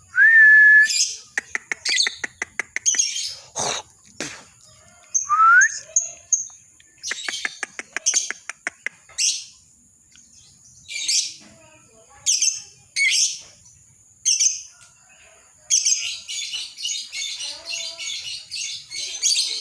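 Lovebird singing: sharp high chirps and screeches, two short whistled notes and rapid clicking trills, then, for the last few seconds, a fast unbroken chatter, the lovebird's long 'ngekek' song.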